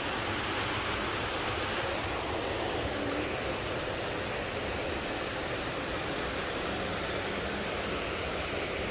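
Steady, even rush of a waterfall's falling water, holding one level throughout.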